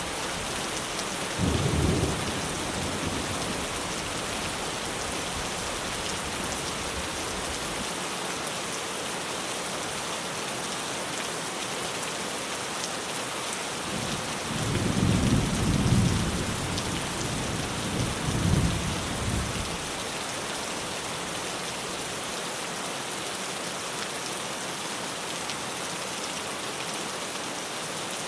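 Steady rain falling on a tin roof, with thunder rumbling twice: a short rumble about two seconds in, then a longer, louder one in two swells from about fifteen to twenty seconds in.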